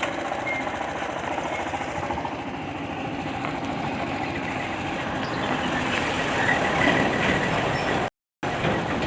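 Motorcycle engine running steadily, its sound cutting out completely for a moment near the end.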